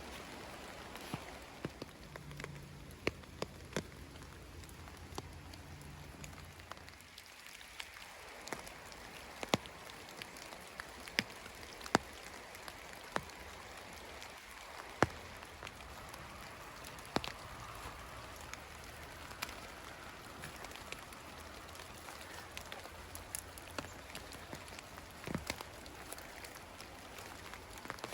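Sparse raindrops ticking irregularly on leaves over a soft steady hiss of light rain. A faint low hum runs under it for the first several seconds.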